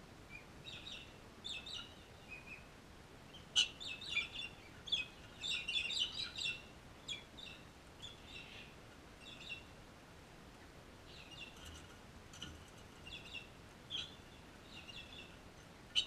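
Birds chirping and chattering in quick clusters of short high calls, busiest from about three and a half to seven seconds in. A sharp click comes at the start of that busy stretch and another at the very end.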